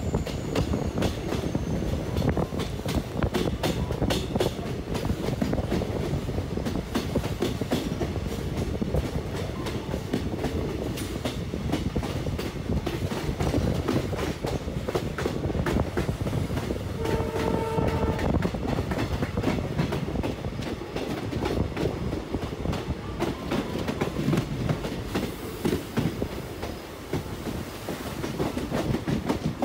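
Passenger train running at speed, its wheels clattering over the rail joints in a dense, continuous clickety-clack, heard from an open coach doorway. A brief train horn blast sounds about two-thirds of the way through.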